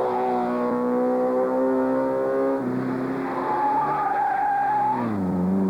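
Classic rally car's engine pulling hard up a steep mountain climb, with a gear change about two and a half seconds in. Tyres squeal through a bend near the end, and the engine note then drops sharply.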